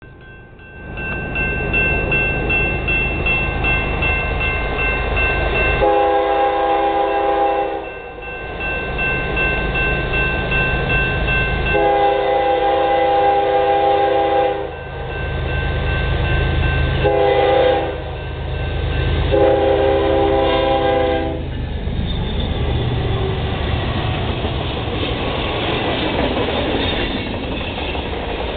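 Train approaching and passing a grade crossing: the locomotive horn sounds the crossing signal, long, long, short, long, over a steadily ringing crossing bell. From about two-thirds of the way in, the locomotive and its cars rumble past with clickety-clack of the wheels on the rails.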